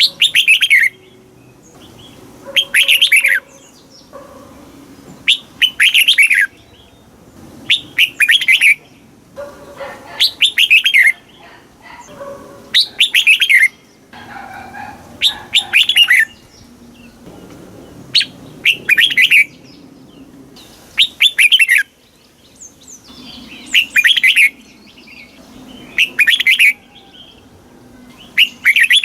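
Red-whiskered bulbul singing: loud, short whistled phrases of about a second each, repeated every two to three seconds.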